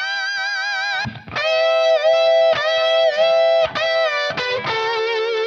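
Overdriven electric guitar lead played through a Line 6 Helix modeler, a melody of mostly long held notes with vibrato between a few short picked ones.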